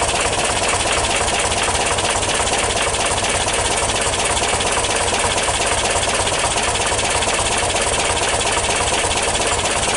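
1977 VW T2 Kombi camper's air-cooled flat-four engine idling steadily with an even rhythm after a cold start that the owner says went well.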